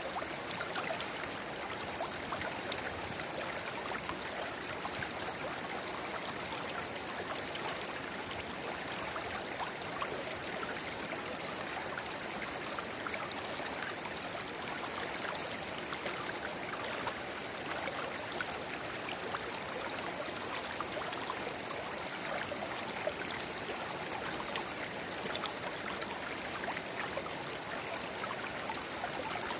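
River water babbling steadily over stones, where a narrow spring-fed rivulet pours into the main stream. It makes an even, unbroken wash with fine trickling detail.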